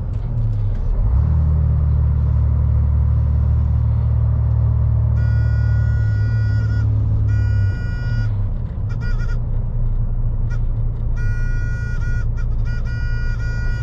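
MAN lorry's diesel engine running on the move, its low drone easing off about eight seconds in. From about five seconds in, a high steady tone sounds on and off over it several times.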